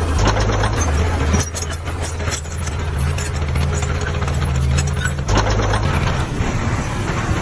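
Heavy diesel engine of an earthmoving machine running, with repeated metallic clanks and rattles over the steady low rumble; the engine note changes about five seconds in.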